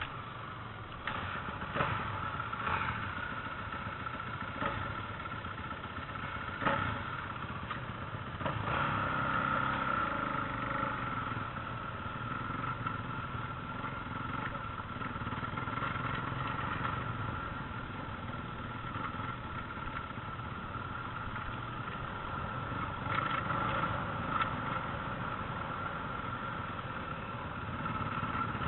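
Motocross motorcycle engine running steadily, with several sharp knocks in the first few seconds and again near the end.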